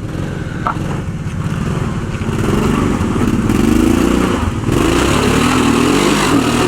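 Off-road 4x4's engine revving up and down under load as it climbs a rock ledge, growing louder about two seconds in.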